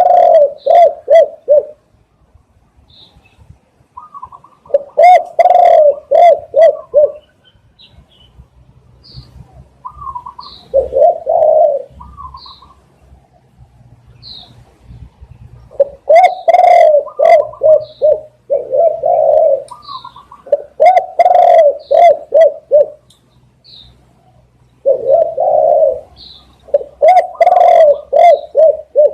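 Spotted doves cooing: about eight repeated phrases of low coos, separated by pauses. Short higher notes and faint high chirps fall between the phrases.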